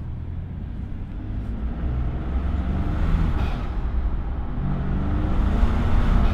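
Ford F-150's twin-turbo EcoBoost V6 pulling under acceleration through an aftermarket cold air intake. The engine sound builds steadily louder, with two brief rushing whooshes about three and five and a half seconds in.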